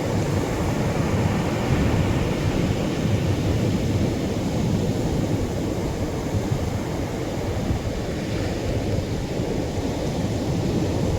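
Atlantic surf washing onto a beach: a steady, deep rush of breaking waves without distinct single crashes.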